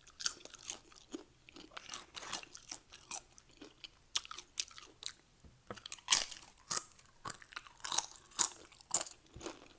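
Close-miked crunching and chewing of Doritos nachos: a run of sharp, irregular crisp crunches of tortilla chips being bitten and chewed.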